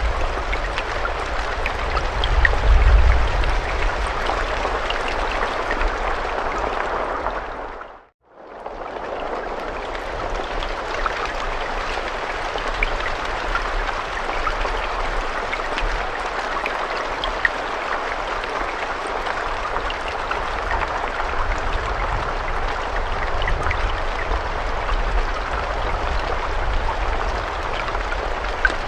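Steady rainfall, a dense hiss with scattered individual drops ticking through it. About eight seconds in it fades briefly to silence and swells back, as at the seam of a looped recording.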